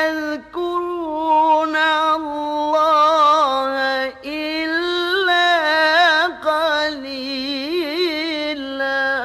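Man's voice reciting the Quran in a long, drawn-out melodic phrase, with wavering ornamental turns in pitch and a few brief breaks.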